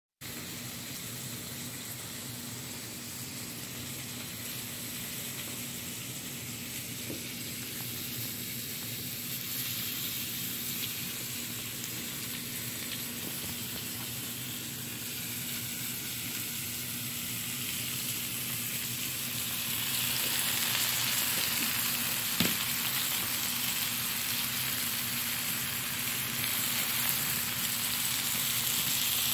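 Food sizzling and frying on a hot flat-top griddle: a steady hiss that grows louder about two-thirds of the way through, with one sharp tap a little later and a faint steady low hum underneath.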